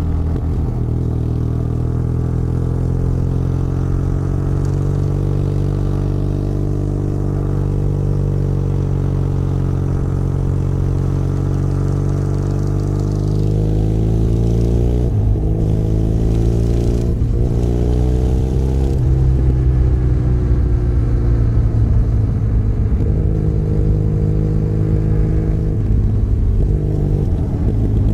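Benelli Leoncino 500 Trail's parallel-twin engine running steadily under way. Its pitch drops and climbs sharply twice about halfway through, as when changing gear, then it runs on at a slightly higher level.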